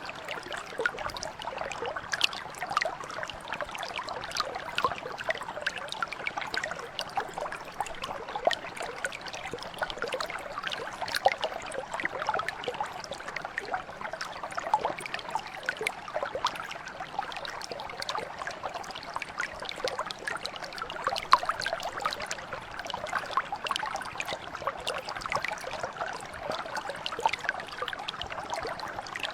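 Mountain brook flowing steadily, with lots of small splashes and trickles over the top.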